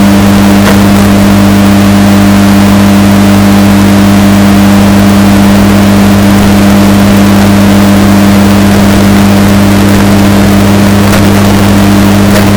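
Washing machine running with a steady, unchanging motor hum, heavily bass-boosted and distorted so that it is extremely loud.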